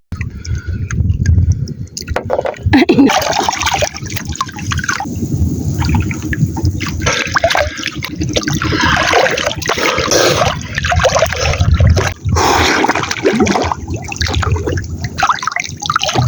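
Seawater sloshing and splashing irregularly, with a low rumble underneath.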